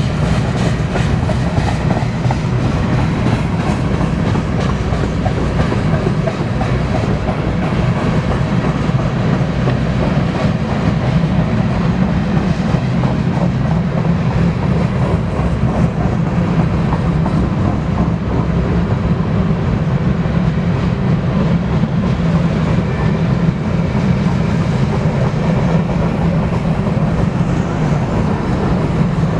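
Freight cars of a grain train rolling past: a steady, loud rumble of steel wheels on rail with a continual clickety-clack over the rail joints.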